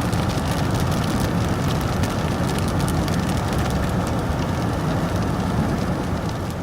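Car driving in rain, heard from inside: a steady low road and engine rumble with many small ticks of raindrops hitting the car.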